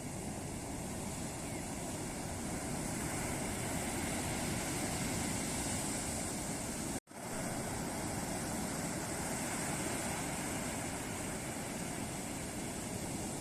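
Ocean waves breaking on a beach: a steady rushing wash of surf. About seven seconds in, the sound cuts out for an instant, a splice in the recording.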